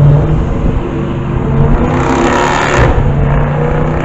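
Car engine revving through its exhaust, rising in pitch partway through and then settling back, with a little backfire.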